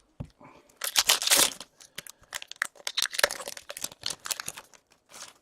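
Foil wrapper of a hockey card pack being torn open and crinkled in the hands: a run of irregular crackling and rustling.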